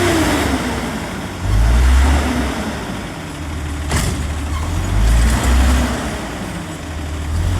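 Garbage truck's diesel engine running, its low rumble swelling and easing every second or two. A short whine falls away at the start, and there is a sharp clank about four seconds in.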